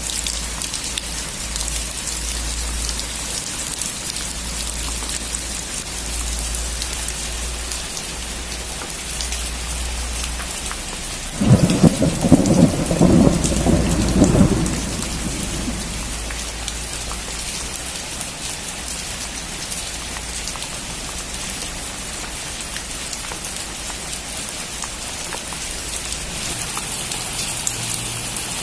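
Steady rain falling, with one sudden clap of thunder a little before halfway through that breaks into a crackling rumble for about three seconds, then fades back into the rain.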